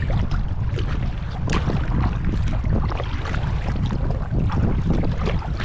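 Strong wind buffeting the microphone in a low, steady rumble, with choppy river waves splashing and slapping against a kayak.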